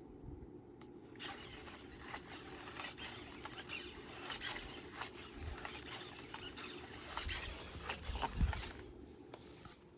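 Rapid, irregular scratching and scrabbling, like a dog's claws working busily at a surface, starting about a second in and stopping about a second before the end, with a couple of dull thumps near the end.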